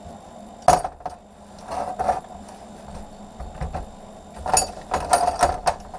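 Pieces of scrap metal clinking and clanking as they are handled: a sharp knock about a second in, a few lighter clinks, then a quick cluster of knocks near the end.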